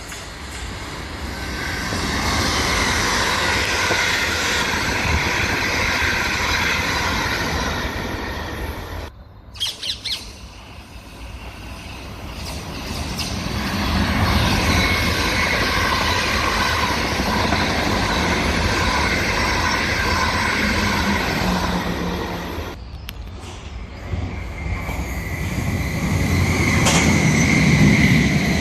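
Electric multiple-unit trains running past on the rails, a steady rumble of wheels on track that swells and fades. In the last few seconds a steady high wheel squeal rises over it.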